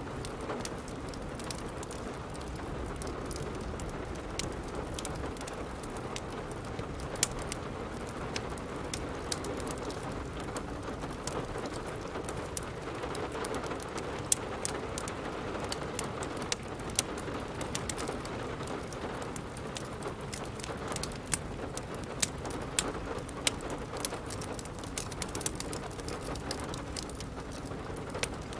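Steady rain with irregular sharp crackles and pops from a wood fire in a fireplace.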